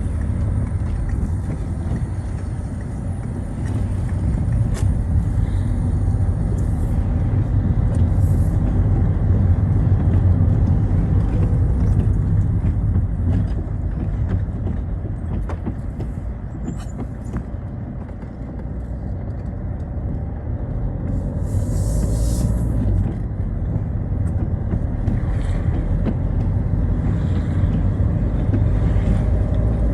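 Citroën Xsara driving in the rain: a steady low engine and road rumble that swells and eases with speed, dipping around the middle. A brief hiss rises about 22 seconds in.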